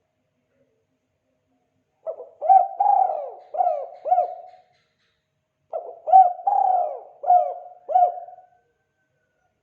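Spotted dove (tekukur) cooing in the call style keepers call 'kuk 2': two phrases a little over a second apart, each a quick soft lead-in followed by one longer coo and then a few shorter notes.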